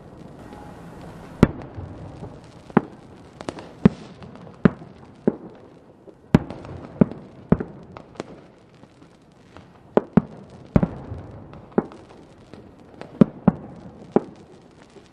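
Fireworks going off: sharp bangs, one every second or so and sometimes two close together, over a low rumble of more distant bursts.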